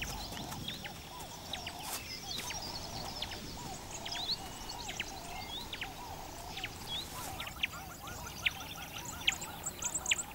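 A chorus of many birds chirping and calling, dense short chirps and whistles overlapping.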